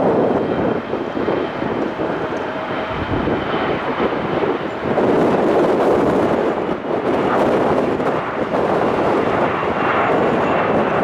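Mitsubishi CRJ-900 regional jet departing, its two rear-mounted GE CF34 turbofans running at high power: a loud, steady rushing jet noise with a faint high whine.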